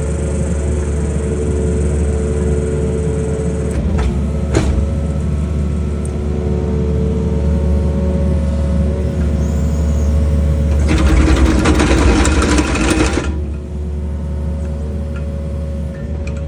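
Excavator engine running steadily with a hydraulic whine while it drives an auger drilling pier holes. There are two sharp clicks about four seconds in, and near the end a louder rushing, rattling noise lasts about two seconds and then cuts off suddenly.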